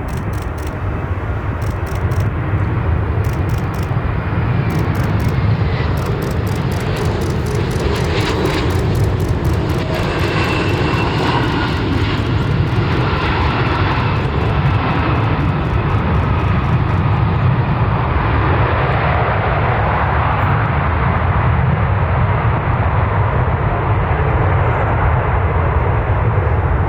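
Jet aircraft engines passing close by: a loud, steady rumble with whining tones that slide slowly in pitch, building over the first couple of seconds and then holding.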